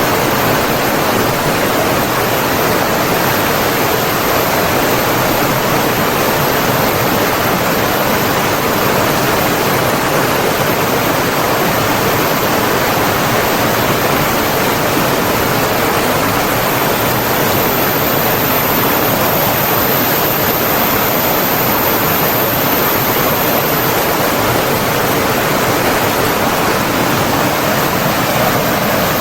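Flowing water rushing steadily as a continuous, even hiss, like a stream or small waterfall.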